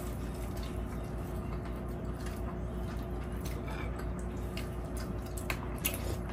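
Soft chewing and mouth sounds of people eating tender braised beef rib meat, with a few small clicks, over a steady low background hum.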